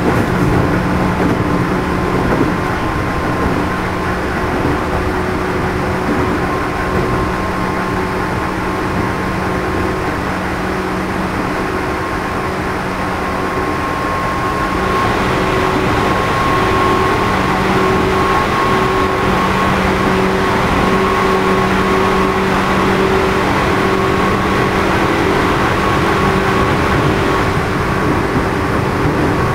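JR East 211-series electric train running, heard inside motor car MoHa 211-1, whose self-ventilated traction motors are known for an unusual noise. A steady motor whine sits over the rumble of wheels on rail. Halfway through the whine creeps slightly higher and the sound gets brighter and louder.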